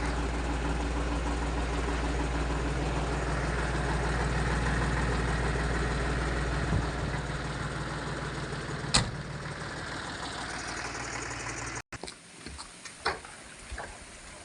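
1989 Torpedo DT4806 Adriatic tractor's diesel engine idling steadily, its low rumble thinning about seven seconds in, with a sharp click about nine seconds in. Near the end the engine sound cuts off abruptly, leaving quiet outdoor sound with a few small clicks.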